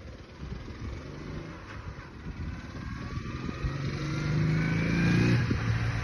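Ural motorcycle's flat-twin engine speeding up, its pitch rising and growing louder over a few seconds, then dropping back to a steadier, lower note near the end.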